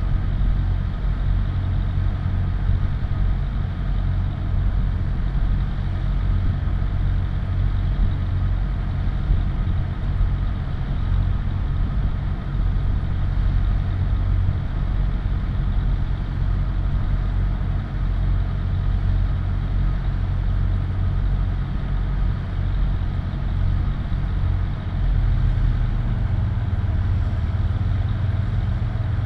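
Vehicle engine idling with a steady low hum; the low note shifts slightly near the end.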